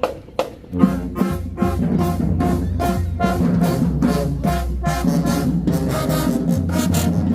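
High school marching band playing, brass over drums: a few sharp drum hits open, then the full band comes in about a second in with a steady beat.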